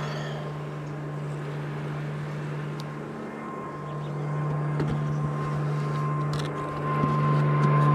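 Honeybees buzzing around an open hive: a steady drone with a higher tone joining about halfway through, swelling toward the end.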